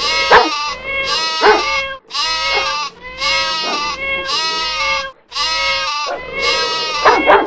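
A string of animal calls, about one a second. Each is a drawn-out, pitched cry of roughly half a second, and a few short, sharp calls come near the start and near the end.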